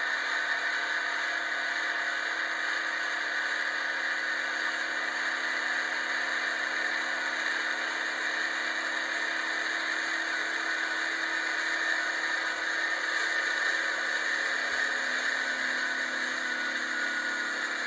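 Tractor engine running steadily at a constant speed with a mechanical whir. A faint high whine comes in near the end.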